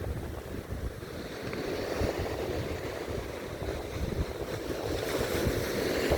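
Sea surf breaking and washing up on the shore, swelling about two seconds in and again near the end, with wind rumbling on the microphone.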